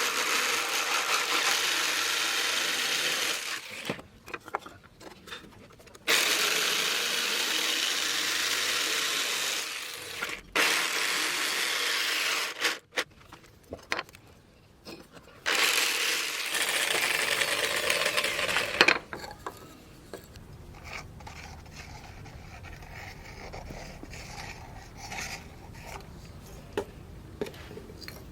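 Abrasive scraping on steel in four long passes of a few seconds each, with short pauses between them. After them come quieter handling and a few light knocks.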